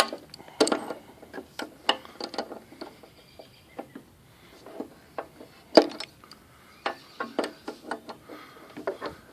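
Adjustable wrench clinking and knocking on the spark plug of a Briggs & Stratton 4.5 HP push mower engine as the plug is worked loose: irregular metallic clicks and taps, the loudest about six seconds in.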